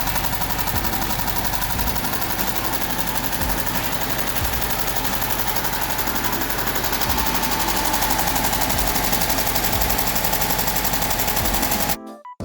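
Air-cooled VW Beetle 36hp flat-four engine running, a fast even stream of firing pulses with a cooling-fan whine that rises slightly as the engine picks up a little speed about halfway through. It cuts off abruptly near the end, giving way to piano music.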